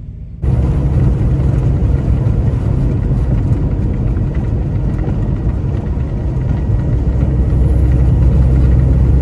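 Semi-truck on the move: steady, loud engine and road rumble, starting abruptly about half a second in.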